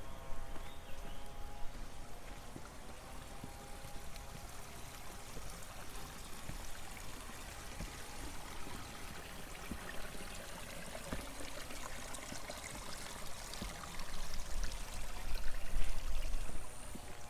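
Water running and trickling steadily in a small irrigation channel. It swells louder for a few seconds near the end, with added low rumble.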